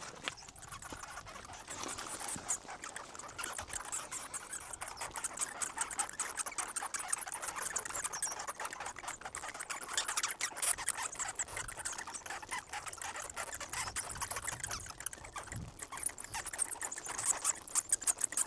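A large colony of bats roosting in a narrow rock crevice, squeaking and chittering together in a dense, continuous chorus of high-pitched rapid chirps.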